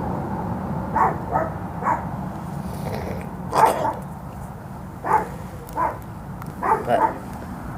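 A dog barking in short, separate barks, about eight spread over several seconds, over a steady low hum.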